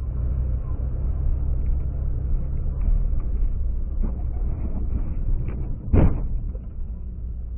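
Low, steady rumble of a car driving, as picked up by a car-mounted camera's microphone, with a single loud thump about six seconds in.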